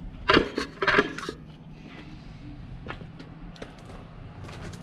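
Several loud clanks and knocks about a second in, then scattered light clicks over a low hum: hand work on a 1971 Chevy C10's firewall as its air box is being taken off.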